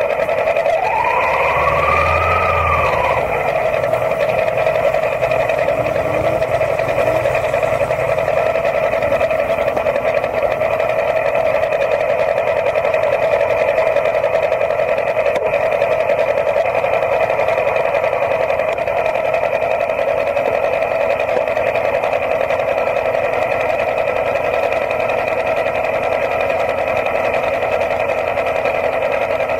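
A motorcycle engine idling with a steady, unchanging buzzing hum. About a second in, a brief whine rises and falls.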